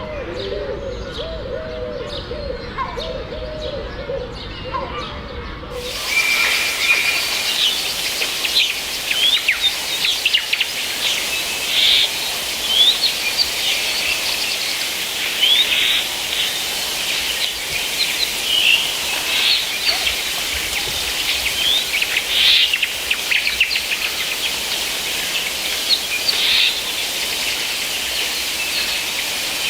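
Rainforest birds calling: many short chirps and whistles, one after another, over a steady background hiss. For about the first six seconds a different recording plays instead, with low wavering animal calls; the bird chorus starts abruptly after that.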